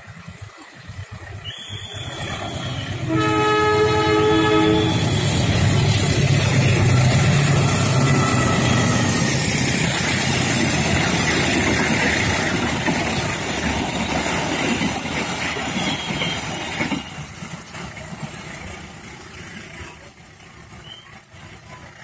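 Passenger train sounding one horn blast of nearly two seconds, then passing close by with a loud rumble and wheel-on-rail clatter that fades away over the next dozen seconds.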